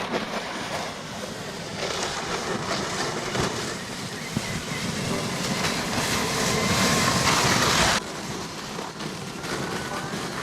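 Traxxas XRT RC truck towing a sled over snow: a steady rushing, scraping noise of runners and tyres on the snowy street. It builds up, then drops off sharply about eight seconds in.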